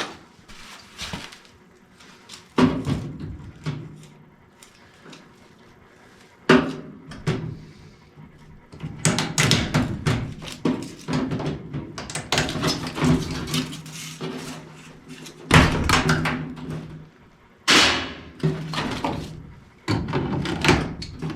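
Metal tools and sheet-metal furnace parts knocking, clanking and rattling as a furnace is taken apart. A few scattered knocks come first, then a busy stretch of clatter through the middle, and more knocks near the end.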